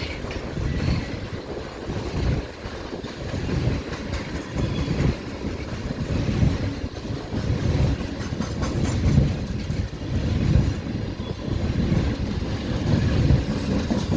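Freight train cars, many of them tank cars, rolling steadily past with a low rumble, the wheels clacking unevenly over the rail joints.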